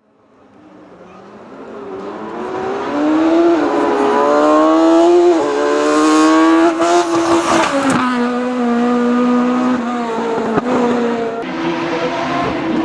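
Hill-climb race car accelerating hard up the course, fading in from silence over the first couple of seconds. Its engine note climbs and drops back at each upshift as it approaches.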